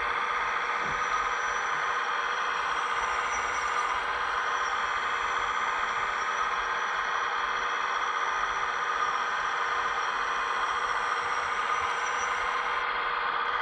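Hydraulic pump and electric drive motors of a scale RC hydraulic excavator whining steadily, holding an even high-pitched tone.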